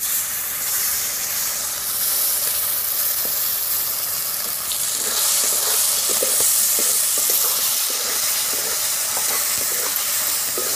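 A paste frying in hot oil with sliced onions in a large metal kadhai: loud sizzling that starts suddenly, with a metal spatula scraping and stirring against the pan from about halfway through.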